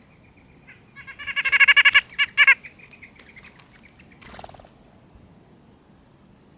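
A bird calling: a quick run of about a dozen harsh, buzzy notes, then two more, with a fainter thin whistle around them and a short extra call about four seconds in.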